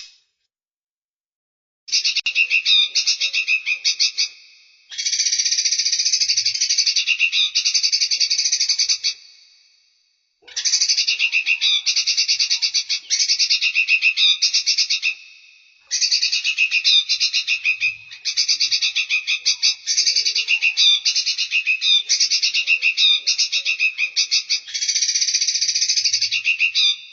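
Recorded songbird song: rapid, rattling trilled phrases, high-pitched and fast-pulsed, coming in runs of about two to ten seconds. The runs start about two seconds in and are separated by brief pauses.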